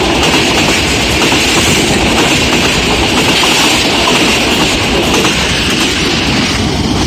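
Passenger train coaches running past close by: a loud, steady rumble of wheels on rail with rapid clicking over the rail joints.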